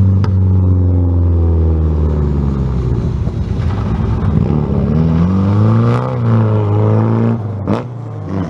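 Nissan Silvia rally car's engine as the car drives past, its pitch falling and rising several times with throttle and gear changes. A short sharp crack near the end.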